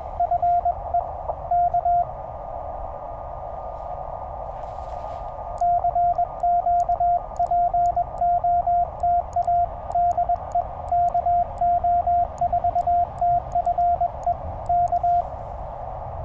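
Morse code from a Penntek TR-35 CW transceiver: a single steady tone keyed on and off, in a short run at the start and a longer run from about five seconds in, with the radio's filtered band hiss between. Faint clicks fall in time with the keying.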